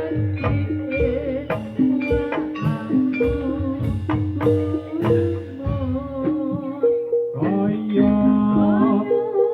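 Javanese gamelan music accompanying a jathilan dance, played live through a PA system. Bronze metallophones are struck in a steady pattern over kendhang drum strokes, and a voice sings wavering lines over them, more strongly in the second half.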